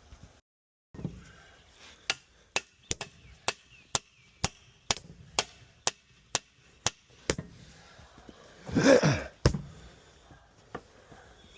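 Repeated sharp hammer blows, about two a second, driving against the old tyre to break its bead off the rim of a vintage tractor wheel, with a louder, drawn-out noise about nine seconds in and a few more blows after it.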